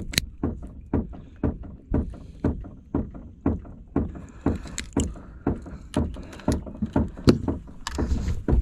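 Wind-driven chop slapping against the hull of a boat, a regular series of low thumps about two a second.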